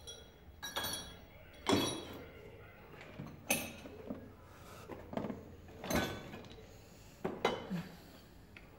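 A series of sharp metallic clinks and knocks, about five, each ringing briefly, from tools and metal parts being handled.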